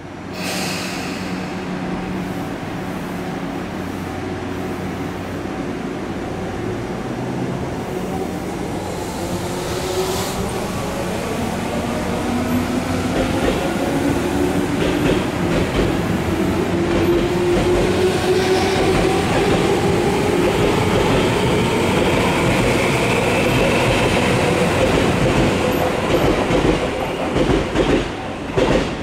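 Electric commuter train of the Tobu Tojo Line pulling out of the station and gathering speed, its motor and gear whine rising steadily in pitch over running noise. Wheel clatter over rail joints near the end.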